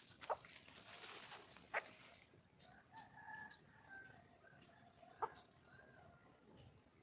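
A wild junglefowl hen giving short, sharp clucking calls, three in a few seconds: a hen calling for a mate, with faint thin whistled notes in between.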